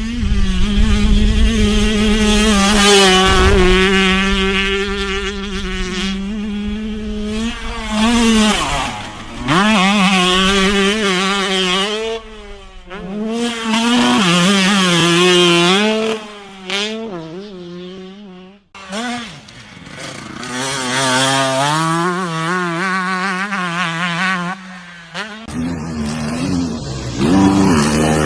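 Off-road motorcycle engines revving hard, the pitch rising and falling with the throttle, in a run of edited clips that cut off abruptly about 19 and 25 seconds in.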